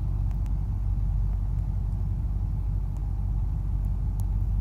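Steady low rumble of a car in motion, road and engine noise.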